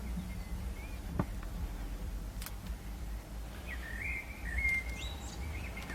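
Low steady hum with a couple of sharp clicks in the first half, and faint bird chirping with wavering whistled notes from a little after three and a half seconds in to just past five seconds.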